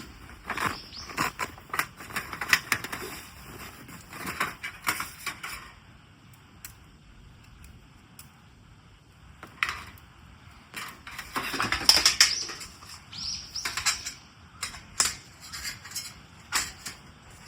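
Irregular rustling and clicking of things being handled, busy at first, quieter for a few seconds in the middle, then a louder burst of rustling.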